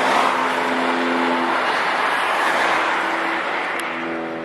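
Passenger train of Budd stainless-steel cars rolling past close by: a loud steady rush of wheels on rails with a low steady hum of a few tones under it, fading away over the last second.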